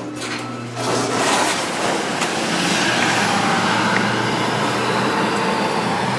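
Road traffic noise from the street pouring in as the elevator doors open, rising about a second in and then holding steady.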